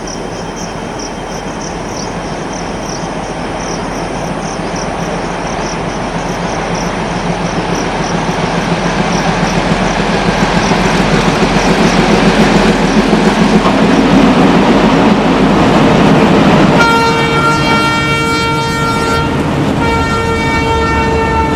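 Metre-gauge train approaching and growing steadily louder with a rumbling run. Then the locomotive's horn sounds two long blasts, the second running on past the end.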